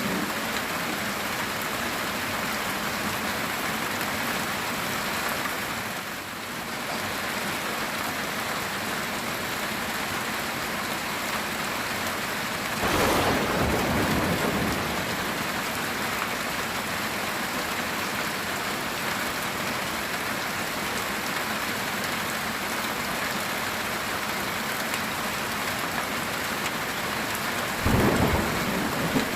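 Heavy rain falling steadily on a metal tin roof. Thunder cracks twice: once about halfway through and once near the end.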